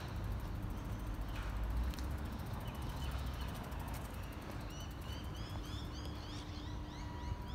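A bird chirping repeatedly from about halfway in, about three short rising chirps a second, over a steady low rumble.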